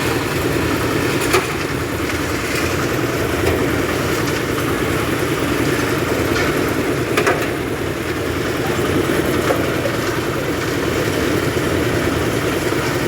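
Engine of a concrete mixer machine with a lift running steadily at idle, with a couple of faint clicks.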